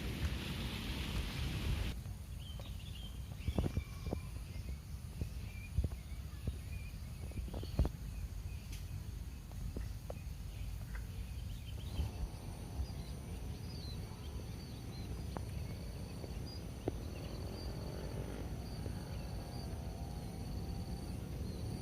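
Outdoor nature ambience: rain hiss for the first two seconds, then a low steady rumble with scattered clicks and short bird chirps. About halfway through, steady high-pitched insect calls and a wavering lower call come in.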